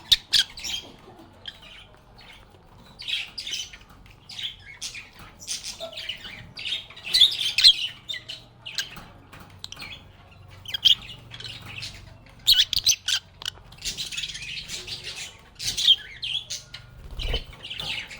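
Several lovebirds (Agapornis) chirping and squawking at once in short, shrill, irregular calls, with no pause longer than about a second.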